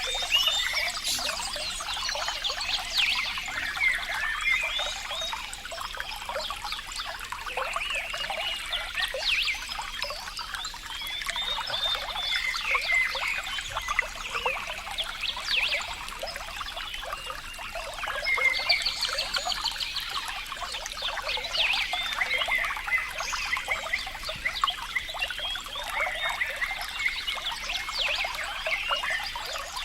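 Running water, a continuous light splashing and bubbling with no deep rush underneath.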